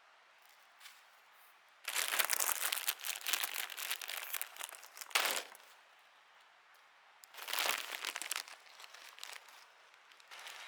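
Plastic food packaging crinkling as it is handled, in two bouts of a few seconds each.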